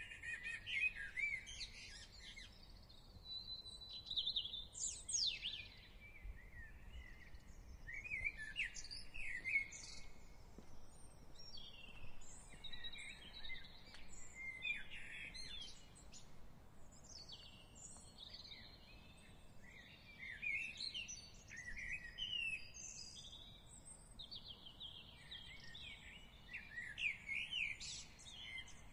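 Several songbirds singing and chirping in short, varied phrases that often overlap, over a faint steady low background noise.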